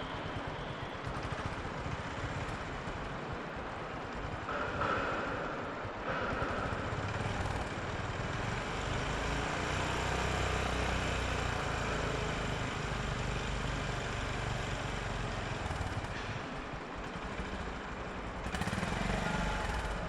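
Motorcycle engine running steadily at low speed, with a low rumble that swells in the middle and a brief louder surge about four seconds in and again near the end.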